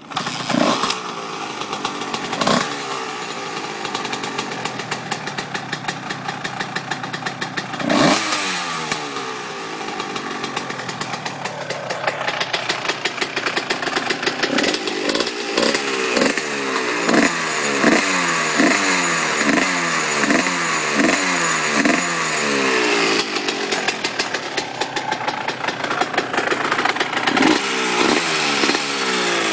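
1997 Honda CR125 two-stroke dirt bike engine firing on a cold start and running, with sharp throttle blips in the first seconds and a long run of quick repeated revs in the second half. A rattle rides along, which the owner puts down to loose side frame guards.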